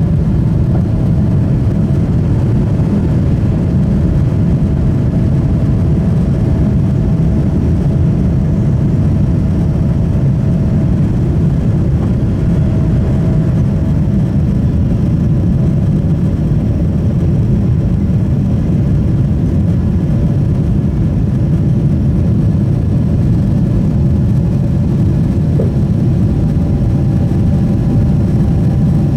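Steady rumble inside the cabin of a Boeing 777-300ER: its GE90 turbofan engines and the airflow heard from a seat over the wing, with a faint steady tone above the rumble.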